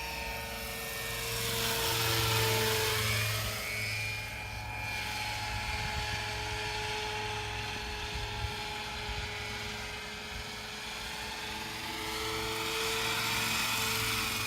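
Radio-controlled AgustaWestland AW139 scale model helicopter flying: a steady motor and rotor whine over a low hum. It grows louder and shifts slightly in pitch as it passes close, about two seconds in and again near the end.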